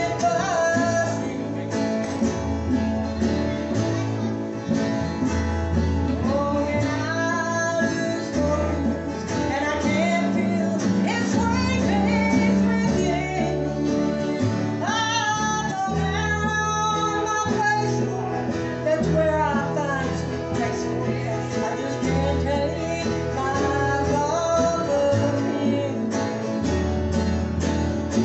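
Live gospel music: a group singing over acoustic guitar and bass, in a country style.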